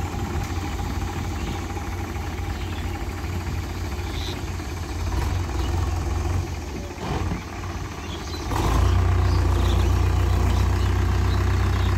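Tractor engine running steadily, getting noticeably louder about two-thirds of the way through.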